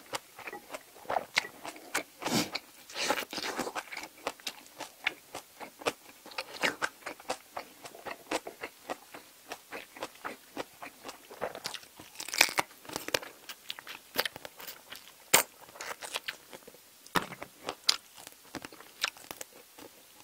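A person biting and chewing spicy braised seafood with bean sprouts (haemul-jjim), close to a clip-on microphone: many short, crisp crunches at irregular intervals.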